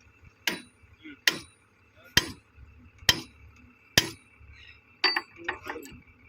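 Hammer striking metal fittings: five sharp, ringing blows about a second apart, followed near the end by a quick cluster of lighter knocks.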